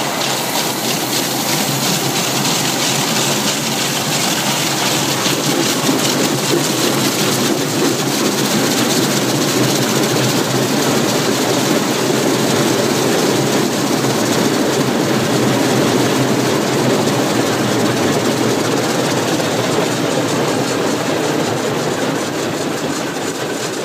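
Automatic car wash heard from inside the car: a loud, steady rush of water spray and machinery on the car's body, shifting slightly about seven seconds in.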